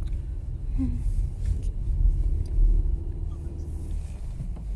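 Steady low road and engine rumble of a car, heard from inside the cabin, with a faint held hum through it.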